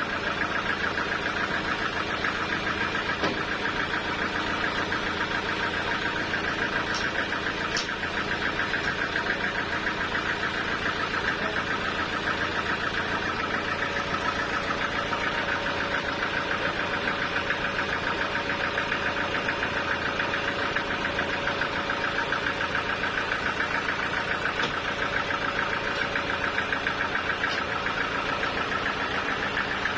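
Sawmill machinery's engine running steadily at one speed, with an even, rapid throb that does not change.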